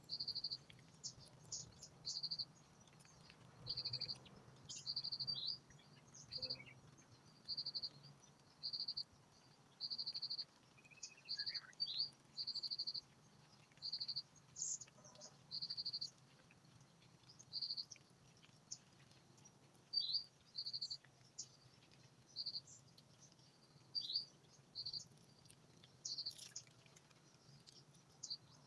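Outdoor insect and bird chorus: short, high-pitched trilled chirps repeat about once a second, with a few quick sweeping bird calls in between.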